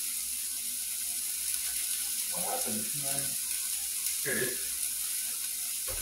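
Diced chicken sizzling in a frying pan, a steady high-pitched hiss of frying.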